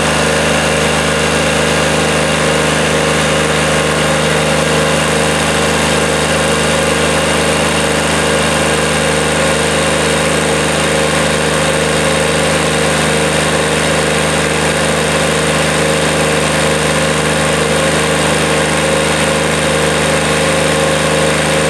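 QC385 diesel engine of a stationary diesel drive running steadily at a constant speed.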